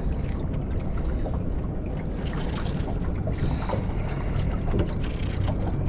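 Steady low rumble of wind on the microphone and water around a small fishing boat, with a steady low hum underneath and a few faint ticks.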